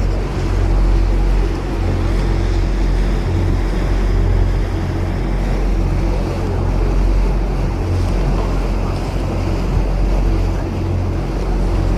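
Boat engine running steadily with a low drone, over a rush of water and wind on the microphone.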